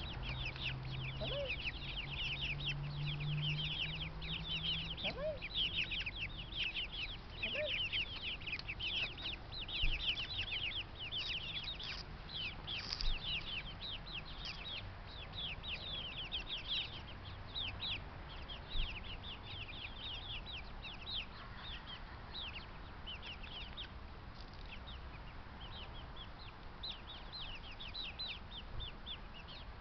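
Backyard poultry flock calling: many rapid, high, short falling chirps with no break, and a few lower clucking calls in the first several seconds.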